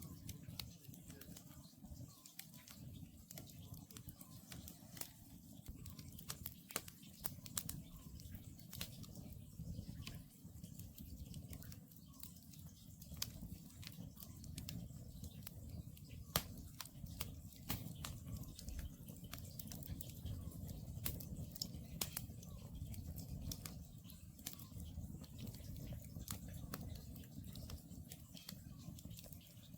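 Wood campfire crackling: many sharp, irregular pops and snaps over a low steady rumble of the burning logs.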